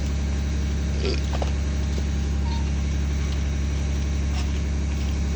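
Engine running steadily with a low, even drone, with a couple of short knocks about a second in.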